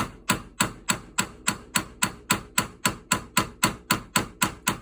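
A small hammer tapping steel in a fast, even series, about four light strikes a second, each with a short metallic ring. It is peening burred metal back around a rust-seized shotgun action plate screw, and the blows also help loosen the screw.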